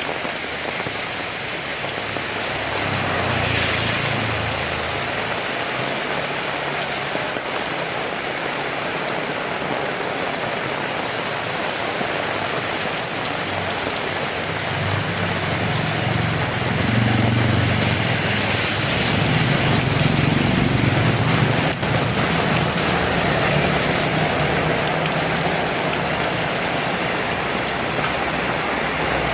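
Heavy rain falling steadily. A vehicle passes with a low engine rumble about three seconds in, and a louder one passes from about the middle of the stretch for several seconds.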